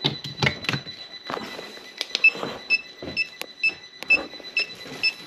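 An electrical tester beeping in a steady pulse of short, high beeps, about two a second, starting about two seconds in, among handling clicks and knocks.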